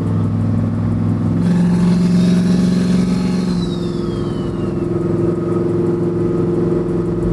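Engine of a tuned truck that runs on E85, running steadily as it drives. The engine note lifts a little about a second and a half in and eases back a couple of seconds later, with a faint high whistle falling in pitch near the middle.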